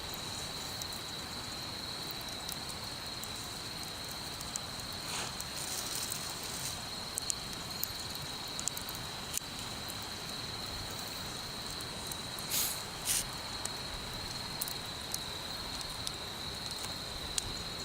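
Wood fire crackling, with scattered sharp pops and two louder pops about two-thirds of the way through. Behind it runs a steady high-pitched insect trill.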